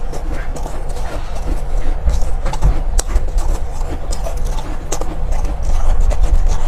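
Close-up crunching and chewing of soft, powdery ice: irregular sharp crunches over a steady low rumble.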